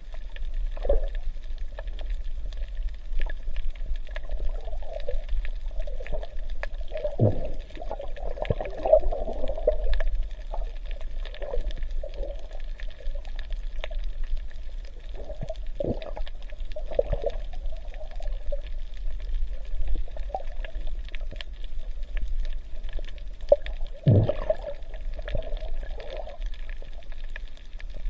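Water sloshing and gurgling, muffled, over a steady low hum, with a few sharp gurgling swoops about 7, 16 and 24 seconds in.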